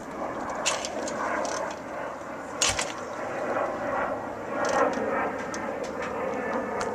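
1968 Triumph T100C's 500 cc parallel-twin engine running just after a cold start, with a sharp knock about two and a half seconds in.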